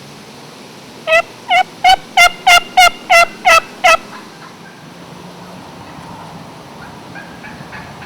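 Hand-operated turkey call giving a run of about nine loud hen yelps, roughly three a second, each note breaking sharply downward in pitch. The run stops about four seconds in.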